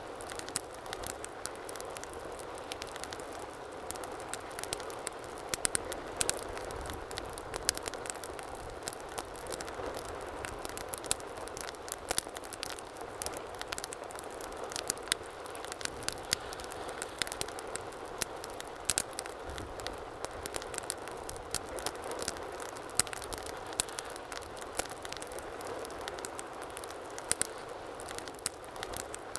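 Wood fire burning in a fireplace: a steady hiss with frequent irregular crackles and sharp pops.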